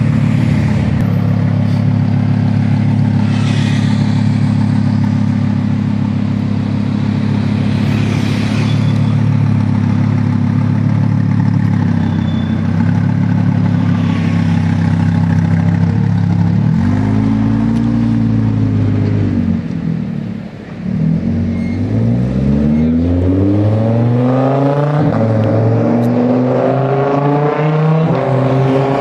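Lamborghini Huracán's V10 engine idling steadily, then revved once, rising and falling, about two-thirds of the way in. It then pulls away, its pitch climbing in a run of repeated rises as it accelerates through the gears.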